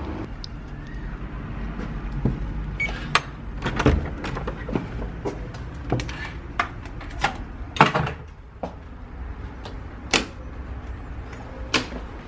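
A string of irregular sharp knocks and clicks, about one a second, with the loudest near the two-thirds mark, over a steady low hum.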